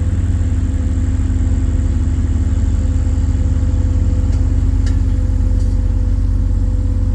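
JCB CT260 tandem road roller's diesel engine running steadily at an even speed, with no revving.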